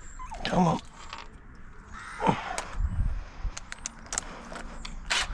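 Scattered light metallic clicks and clinks of hand tools and sockets being handled, with a short falling vocal grunt about two seconds in.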